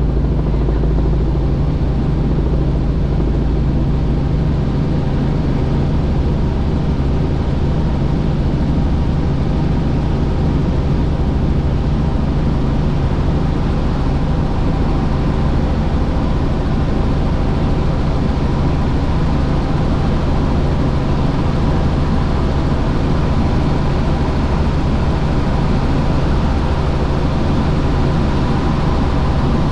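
Helicopter in flight: engine and rotor running with a steady, unchanging drone.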